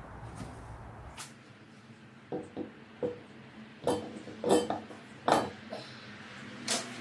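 A string of sharp metallic clinks and pings, about eight of them over a few seconds, each ringing briefly: loose metal wheel hardware being handled and knocked together.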